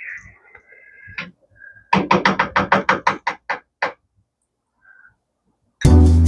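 A quick run of about a dozen short, sharp knocks lasting about two seconds, after a faint high tone and a single click; music starts near the end.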